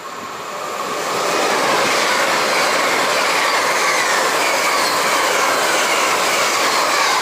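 LNER Hitachi Azuma passenger train passing at speed close by, a loud steady rush of wheels on rails. It builds over the first second or so as the train arrives and then holds, with a faint falling whine above the rush.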